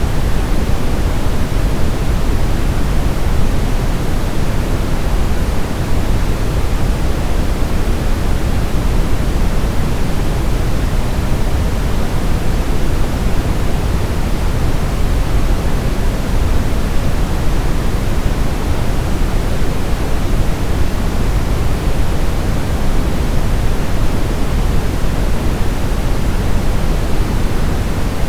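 Steady, unbroken sleep-aid white noise: an even hiss weighted toward the low end, with no change in level or pattern.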